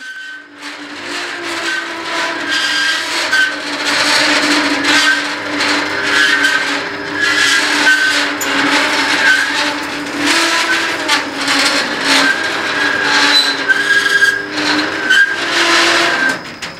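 Yamaha Venture 8GR snowmobile four-stroke engine, in a student Formula car, running and being revved in repeated surges. It drops back to a quieter level near the end.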